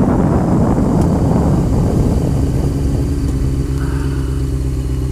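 Honda CBR motorcycle engine under wind rush on the microphone. The rush fades over the first three seconds, leaving the engine idling steadily.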